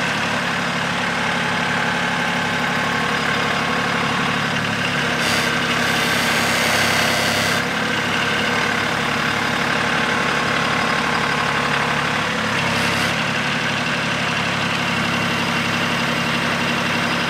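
Small Kubota tractor's engine running steadily, with a hiss from about five seconds in that stops a couple of seconds later.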